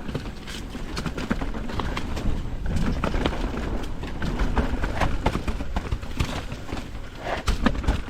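Mountain bike ridden down a rough downhill trail: the bike rattling and clattering in quick irregular knocks as the tyres hit rocks and roots, over a steady low wind rumble.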